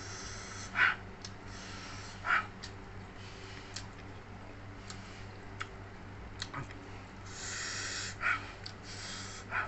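Close-miked eating of spicy jengkol balado: wet mouth sounds and about four sharp sniffs or snorts through the nose, with two longer rushes of breath near the end, over a low steady hum.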